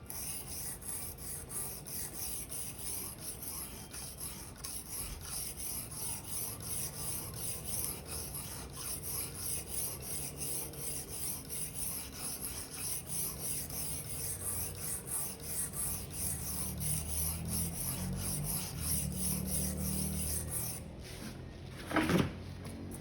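Steel blade of a Victorinox paring knife stroked back and forth on an 800-grit whetstone, a steady rasping scrape about twice a second. The strokes pause briefly near the end, followed by a short louder sound with a sliding pitch.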